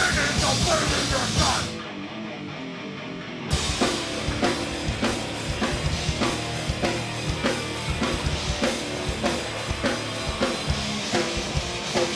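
Live hardcore band playing an instrumental opening on drum kit and amplified instruments. Around two seconds in the drums and cymbals drop away, leaving a held low chord, and about three and a half seconds in the full band crashes back in with steady drum hits.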